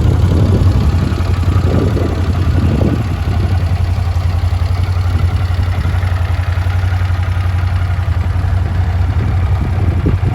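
Honda GL400 Wing's longitudinally mounted, water-cooled V-twin engine idling steadily.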